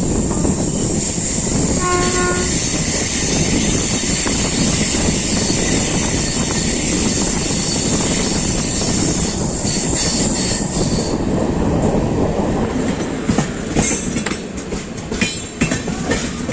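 Passenger train running on the rails, heard from on board: a steady loud rumble of the moving coaches, a short horn note about two seconds in, and a rapid clatter of wheels over rail joints in the last few seconds.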